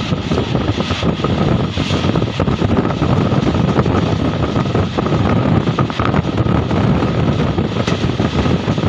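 MEMU electric passenger train running at speed, heard from an open coach window: a steady rumble of wheels on the rails mixed with wind buffeting the microphone.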